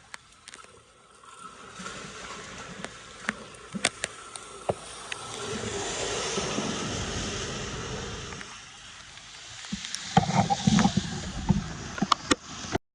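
Water splashing and rushing, swelling for a few seconds midway, with scattered sharp knocks that bunch up near the end before everything cuts off abruptly.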